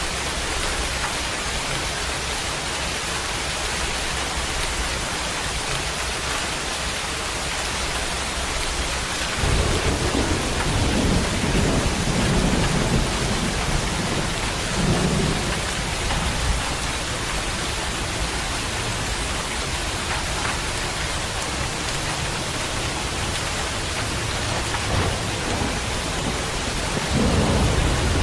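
Steady heavy rain falling, with deep rolls of thunder coming in about a third of the way through, swelling a few times, then fading, and rumbling again near the end.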